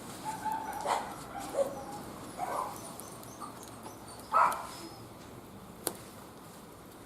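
A dog giving a few short whines and yelps, the loudest a little over four seconds in, followed by a single sharp click.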